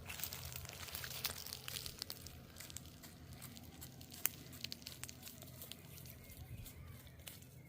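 Rustling and crackling of dry vegetation being pushed through on foot, with scattered sharp snaps and a faint low hum underneath.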